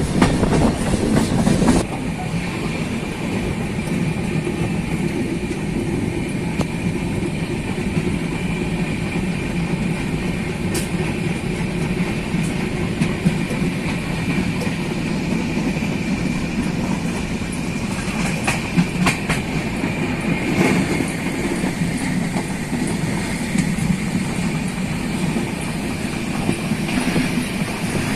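Moving passenger train heard from on board: a steady rumble with the clickety-clack of wheels over rail joints, a faint steady squeal and occasional clicks. It is louder for the first two seconds.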